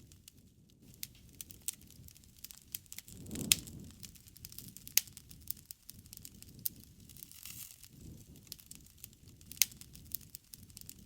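Wood fire crackling, with irregular sharp pops over the low rush of the flames; the loudest pop comes about three and a half seconds in, amid a swell of flame noise, and another sharp pop comes near the end.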